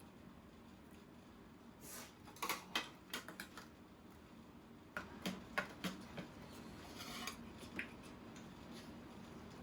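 Utensils clinking and tapping against dishes in two short clusters of clicks, about two seconds in and again about five seconds in, over a faint steady background.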